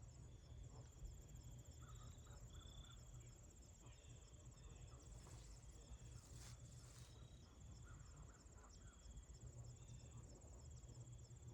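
Faint crickets trilling steadily, high-pitched and pulsing, with short chirps now and then. A brief rush of hiss comes through about halfway.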